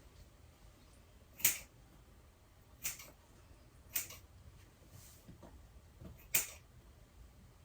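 Scissors snipping a chicken's feathers: four sharp snips at uneven intervals, with a few fainter clicks between.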